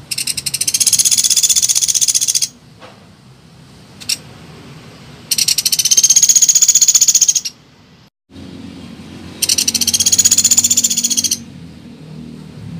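A small woodpecker (pelatuk beras) calling: three fast rattling trills of high notes, each about two seconds long, with pauses between them.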